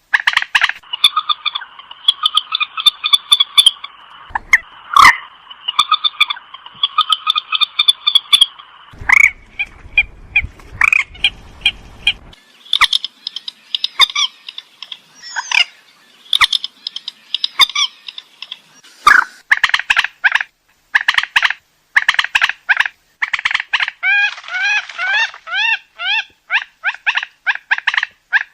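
Purple swamphens calling: bouts of rapid, repeated harsh calls, some in quick rising series, from a recording used to lure the birds.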